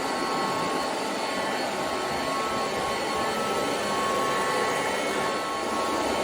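SilverCrest robot vacuum running: a steady fan rush with a faint, constant high motor whine.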